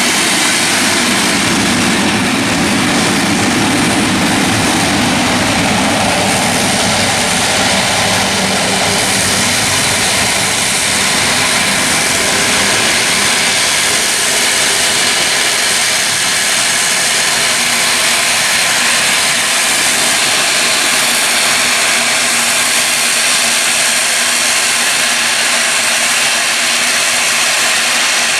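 Airliner engines running loud and steady, a continuous roar with a deeper rumble for the first several seconds.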